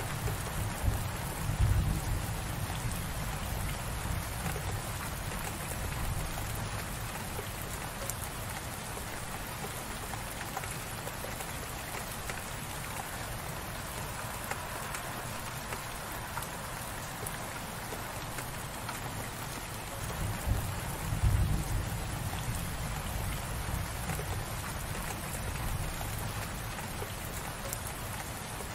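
Light rain falling steadily, an even hiss of drops. A low rumble swells briefly near the start and again about two-thirds of the way through.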